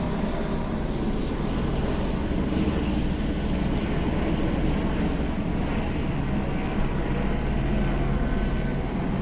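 Steady drone of a police helicopter overhead, mixed with street traffic noise.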